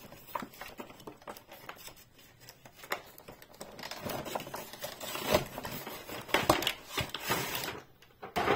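Plastic and cardboard toy-car packaging being handled and opened: irregular clicks and crinkling rustles, loudest a little past the middle.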